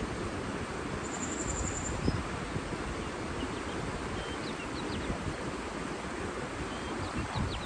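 Outdoor nature ambience: a steady rushing hiss with wind gusting on the microphone, faint high bird chirps scattered through, and a short high buzzing trill about a second in.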